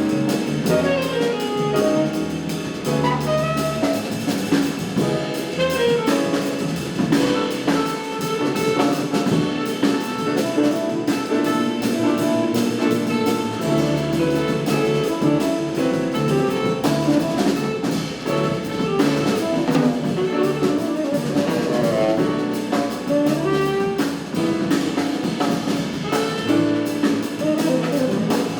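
Jazz quartet of saxophone, piano, double bass and drum kit playing live: a continuous run of melody over a walking bass line, with cymbals and drums throughout.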